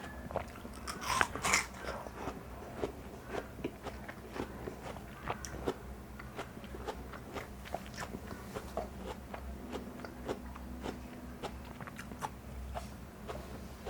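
Close-up eating of watermelon: two louder crunching bites about a second in, then a long run of small crackling chewing clicks.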